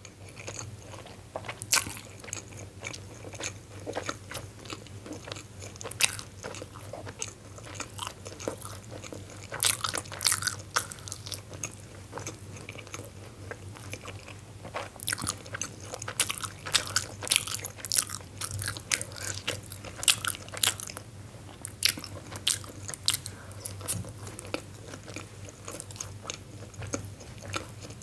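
Close-miked ASMR eating sounds: a person biting into and chewing steamed momos (dumplings), with irregular wet mouth clicks and smacks, thickest in the middle of the stretch.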